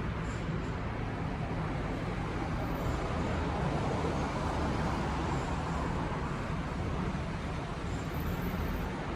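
Steady road traffic noise, an even rumble and hiss without a break.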